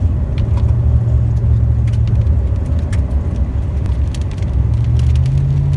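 A car running, heard from inside the cabin as a loud, steady low rumble with scattered sharp ticks. Near the end the engine note rises slightly.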